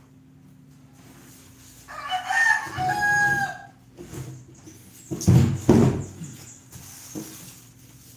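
A rooster crowing once, a cock-a-doodle-doo lasting under two seconds, followed about two seconds later by two loud, low thuds close by.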